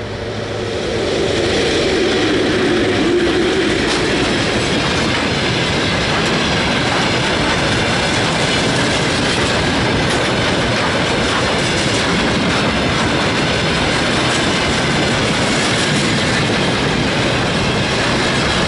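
Freight train hauled by a VL11 electric locomotive passing close by: the sound swells over the first second or two, then holds as a steady rumble and clatter of the wagons' wheels on the rails.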